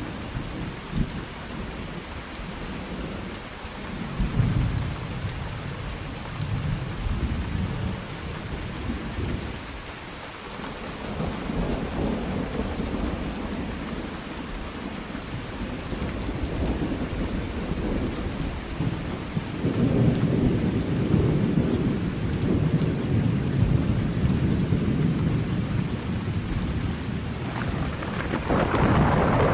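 Thunderstorm: steady rain with rolling thunder that rumbles in several long swells, the loudest near the end.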